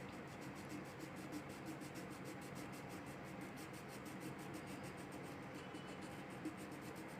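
Faint scratching of a crayon colouring on a paper worksheet.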